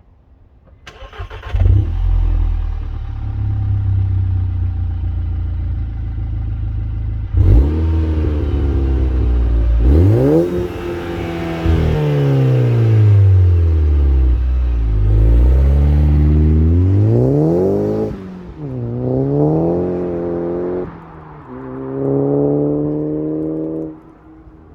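Tuned VW Golf mk6 GTI's turbocharged 2.0 four-cylinder with a 3-inch Milltek valved exhaust starting up and idling, then the exhaust note steps up sharply about seven seconds in and the engine is revved several times, pitch rising and falling with each blip, before settling back to idle near the end.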